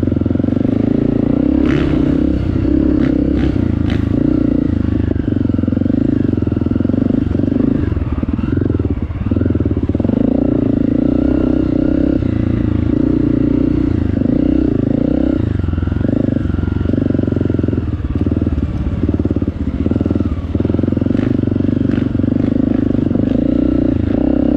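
Honda CRF250 trail bike's single-cylinder four-stroke engine running under changing throttle while riding a dirt trail. A few sharp knocks in the first four seconds.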